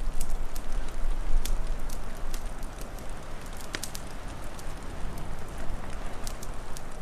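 Wood fire crackling with scattered sharp pops, several a second, over a steady low rumble and hiss of wind that is louder for the first couple of seconds.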